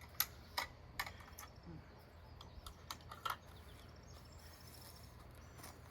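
A few scattered light clicks and knocks of things being handled, most of them in the first three and a half seconds, over a faint low steady hum.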